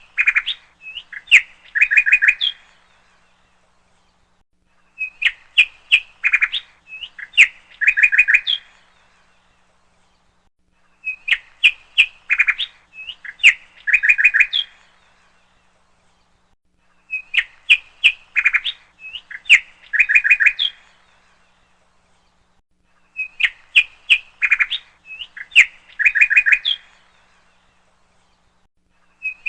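Looped recording of bird chirps and twitters: the same quick phrase of chirps, about three seconds long, repeats every six seconds with silence between.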